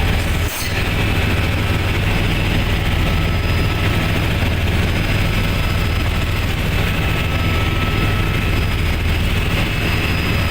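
Helicopter in flight heard from the cabin: a steady loud drone of rotor and engine with a thin high whine over it. A brief dip about half a second in.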